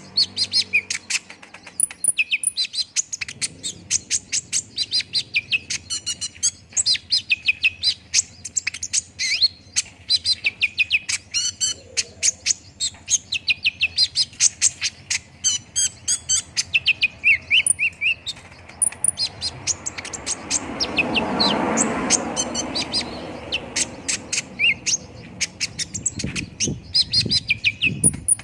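Kolibri ninja (konin) sunbird song played as a lure recording: fast, high, chattering chirps and trills with hardly a pause. About two-thirds of the way through, a broad rushing noise swells up and fades away under the song.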